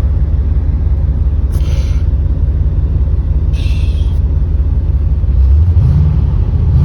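Chevrolet Corvette's Tuned Port Injection V8 running, heard from inside the cabin as a steady low rumble; about five seconds in the engine speed rises. Two short hissing bursts come near two and four seconds in.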